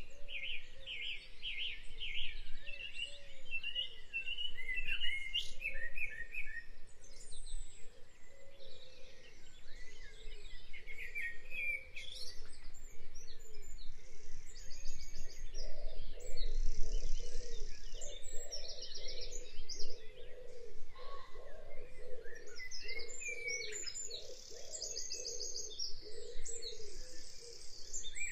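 Several birds chirping and singing, with rapid high trills repeating through the second half and a lower warbling call underneath.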